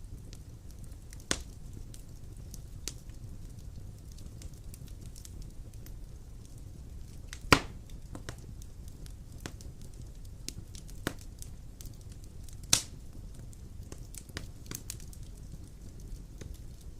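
Wood fire burning in a stone fireplace: a steady low rumble with scattered sharp crackles, and three louder pops, the loudest about halfway through.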